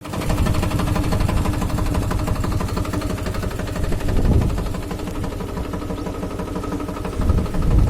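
Captain 250 DI mini tractor's diesel engine running steadily with a fast even beat while pulling a kunte blade cultivator. It swells briefly twice, about halfway through and near the end.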